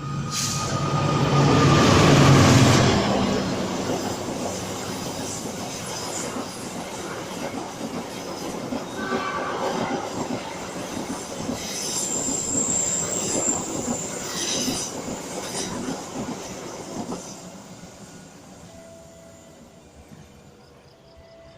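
Passenger train passing at speed. The diesel locomotive goes by loudest about two seconds in, then the coaches roll past with wheel clatter and brief high-pitched wheel squeals. The sound fades away over the last few seconds.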